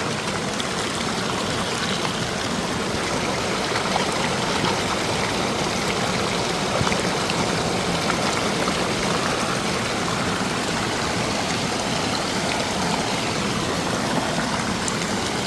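Mountain water rushing steadily over rocks, a continuous even splashing of a stream or cascade.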